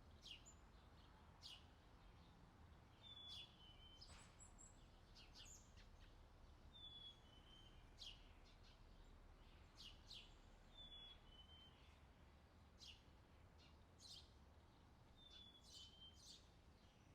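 Faint forest birdsong: several birds give short high chirps, and one repeats a short two-note falling whistle about every four seconds, over a low steady hum.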